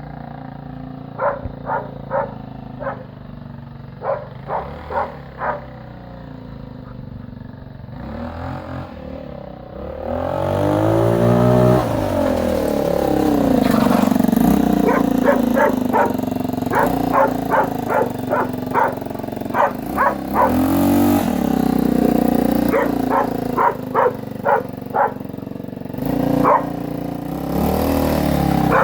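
Aprilia Leonardo 150 four-stroke single-cylinder engine of a handmade mini chopper running at idle and revved up and down three times: about ten seconds in, around twenty seconds, and near the end. A dog barks repeatedly over it in quick runs, and the barks are the loudest sounds.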